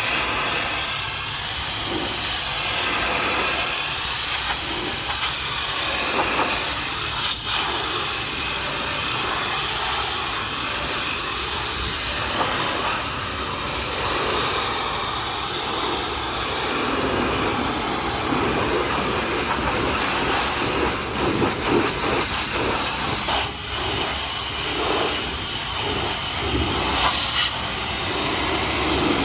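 Pressure washer spraying a jet of water onto a mud-covered truck, a continuous hiss that grows fuller and lower from about halfway through.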